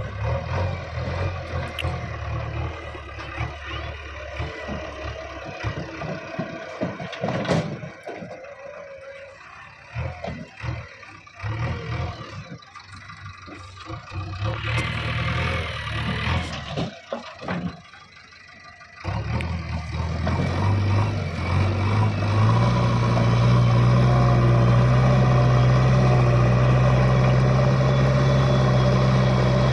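Heavy diesel machinery engine working under varying load, rising and falling in loudness, then revving up about two-thirds of the way through and holding a steady, loud high-revving drone.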